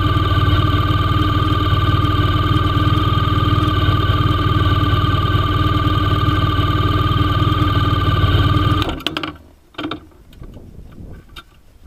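Motorcycle engine idling steadily, then cutting off suddenly about nine seconds in; a couple of faint knocks follow in the quiet.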